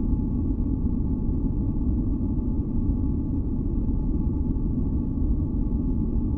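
Steady, deep masking noise from a sleep noise track, weighted toward the low end, with faint steady tones above it and no changes.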